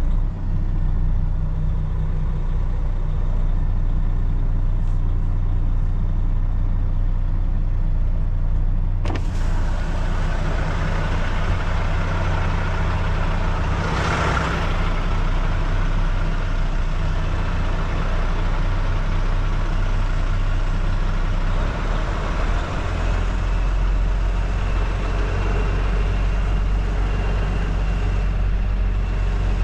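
Kenworth T680 semi-truck's diesel engine running steadily at low speed while manoeuvring, with a short hiss about halfway through.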